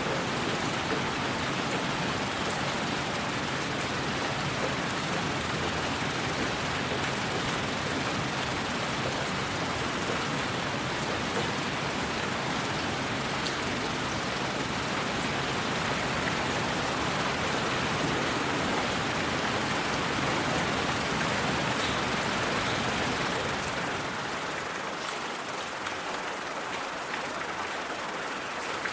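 Steady rushing noise of rain, with a few faint ticks of single drops. About 24 seconds in, the low rumble drops away and the sound grows lighter.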